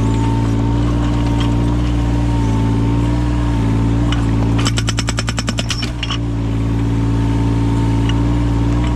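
Yanmar mini excavator's diesel engine running steadily, with a hydraulic breaker fitted with an axe-shaped chisel hammering rapidly for about a second just past the middle, at roughly ten blows a second.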